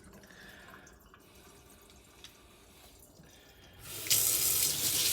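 Sink tap turned on about four seconds in, water running steadily into the sink; before that only a few faint clicks.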